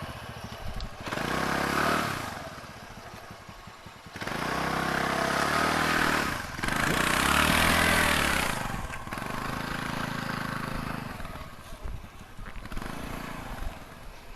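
Motor scooter engine revving in several separate bursts, its pitch rising and falling, the loudest burst about halfway through.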